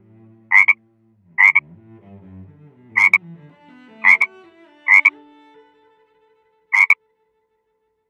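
Frog croaking: six short, loud croaks roughly a second apart, the last after a longer pause. Under them is soft background music of low string-like notes that fades out about six seconds in.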